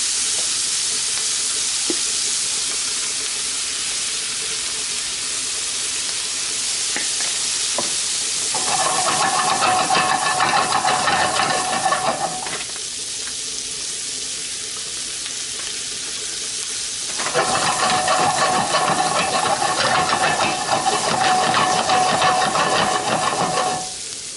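Asparagus sautéing in melted butter in a pan, a steady sizzling hiss. Twice, for several seconds each, a louder noise with a steady ringing tone joins the sizzle.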